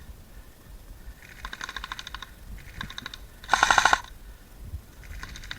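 Airsoft electric guns firing in short full-auto bursts, fast rattling strings of clicks. The third burst, about three and a half seconds in, is much louder and closer than the others.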